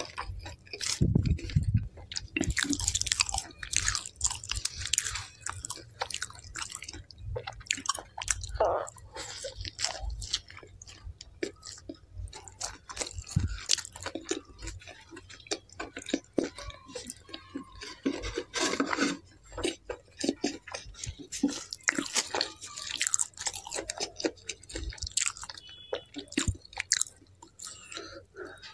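Close-miked ASMR chewing and lip-smacking of naan and kadai paneer eaten by hand: a steady, irregular run of small mouth clicks and smacks.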